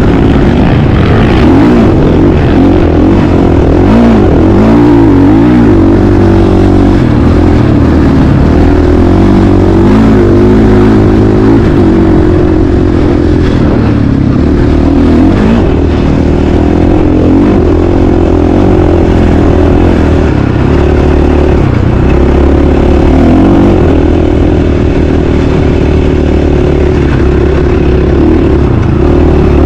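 Motocross dirt bike engine running hard, its pitch rising and falling over and over as the throttle is opened and closed.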